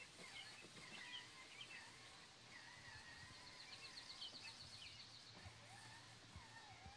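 Faint outdoor birdsong: several birds calling with short whistled and chirping notes, and a quick trill about halfway through.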